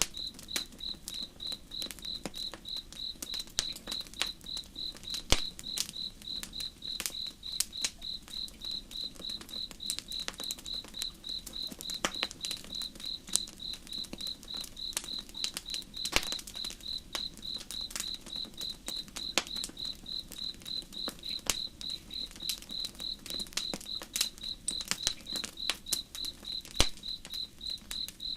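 Campfire crackling with irregular sharp pops, a few louder than the rest, over a cricket chirping in a steady, even rhythm.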